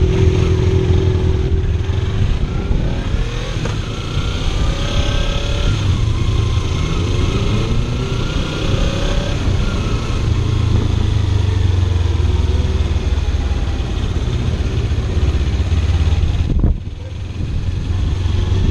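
Kawasaki Ninja 300 parallel-twin engine running under way, its pitch rising and falling as the rider works the throttle and gears. The level drops suddenly near the end.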